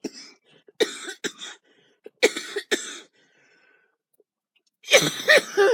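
A woman coughing in three short fits, the loudest near the end: a chesty cough from a cold that has gone down into her lungs.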